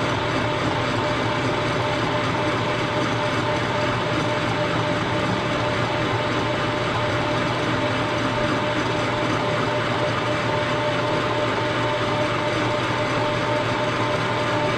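Milling machine running steadily, its cutter facing the cast engine frame, with a constant hum and a steady whine.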